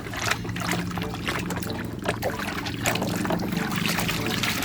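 Water trickling and splashing with small clicks and knocks as a muddy toy is washed by hand.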